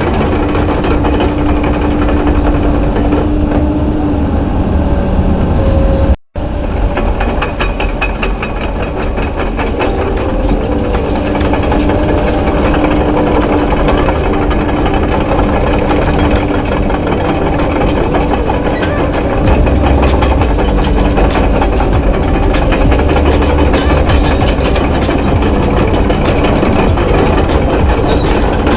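Steady engine sound effect, a low rumble with a held hum, broken by a sudden brief dropout about six seconds in.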